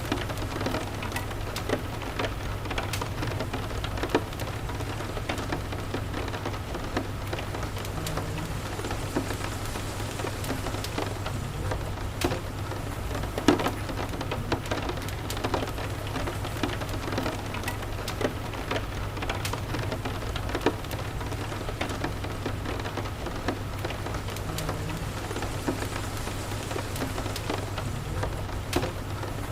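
Steady rain falling on a house, with frequent short sharp crackles from a wood fire and a steady low rumble underneath.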